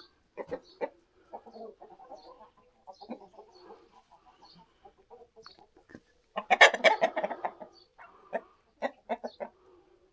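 Chickens clucking in short calls, with a loud flurry of clucking and commotion about six and a half seconds in, followed by a quick run of clucks.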